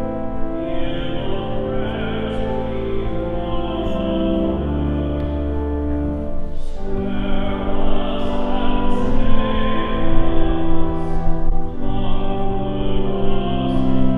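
Entrance hymn sung by voices over organ accompaniment: sustained chords that change every second or two over a deep bass note.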